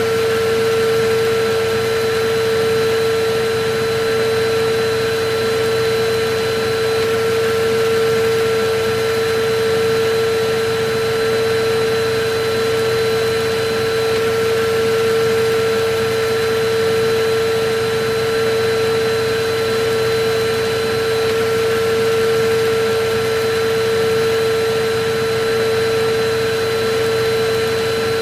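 Electric vacuum cleaner running steadily: a constant motor whine over a rush of air, gently swelling and easing about every two seconds.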